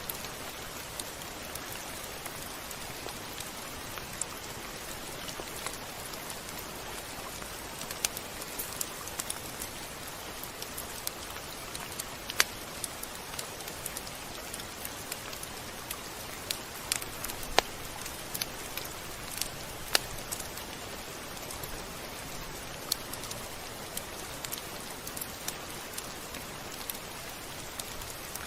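Steady rain falling, an even hiss with scattered sharp drops ticking out above it at irregular moments.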